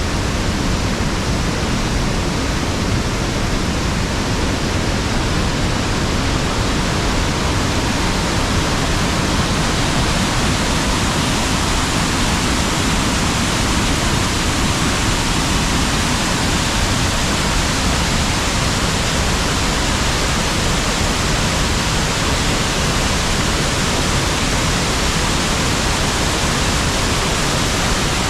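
River water pouring over a waterfall: a steady, even rush that does not change.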